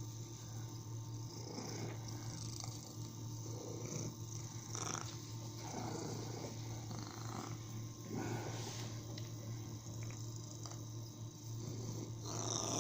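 A domestic cat purring steadily, a continuous low purr that swells softly with each breath every second or two; a short louder noise near the end.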